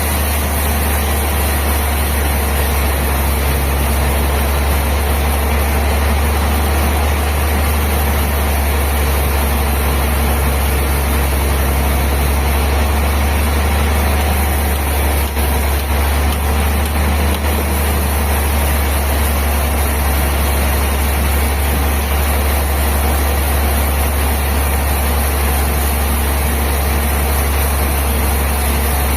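Sawmill machinery running steadily: a continuous low engine hum under an even mechanical noise, with no change through the stretch.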